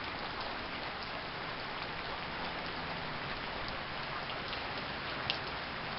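Steady heavy rain hissing down, with scattered drops ticking on nearby surfaces.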